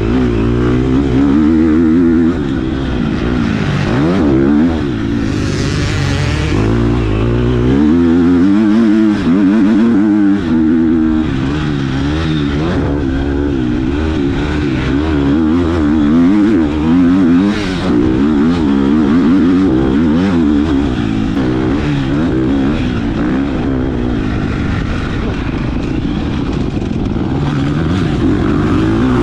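Motocross bike engine revving hard under racing load, its pitch climbing and dropping over and over as the throttle opens and closes, with brief drops in a few places.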